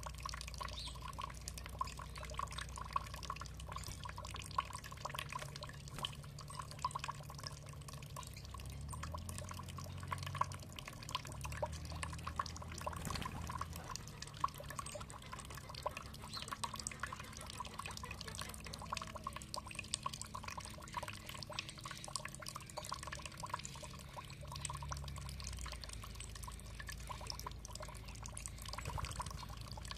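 Water trickling and dripping, many small quick drops over a steady wash of flowing water, with a low rumble underneath.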